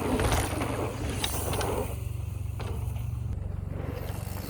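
Mountain bike rolling along a dirt trail: a steady low rumble of tyres and frame, with a few light clicks from the bike.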